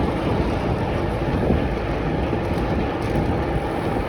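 Steady wind rushing over the microphone with road noise, from riding along a road.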